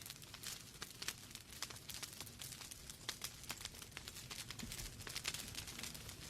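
Wood fire burning in a fireplace: logs crackling with many small irregular pops and snaps over a low rumble of the flames.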